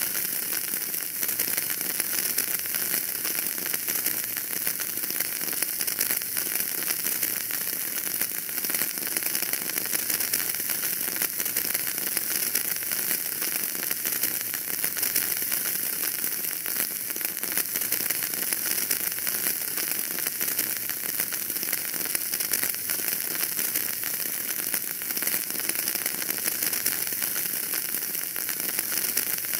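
Wood fire burning in a fireplace, crackling steadily with many small pops over a constant hiss.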